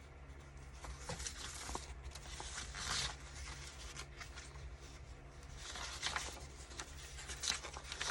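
Sheets of craft paper being handled and shuffled, with a few soft rustling swishes as pieces slide over one another.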